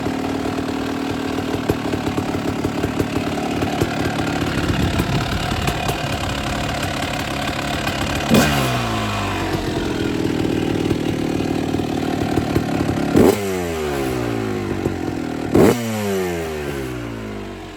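Motocross bike engine idling, with three quick throttle blips about eight, thirteen and fifteen and a half seconds in, each rev dropping back to idle. Near the end the sound drops lower. The owner finds the idle set too low and means to turn it up.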